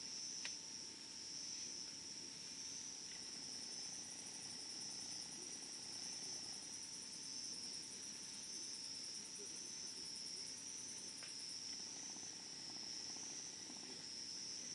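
Insects chirring steadily in one high continuous drone, joined for several seconds in the middle by a second, faster-pulsing insect call. Under it a wood campfire burns low with soft crackling and two sharp pops, one right at the start and one about eleven seconds in.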